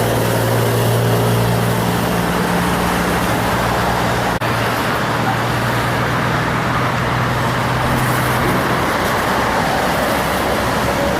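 Heavy road traffic with a truck's diesel engine droning steadily, its low hum fading out near the end. There is a brief dropout about four seconds in.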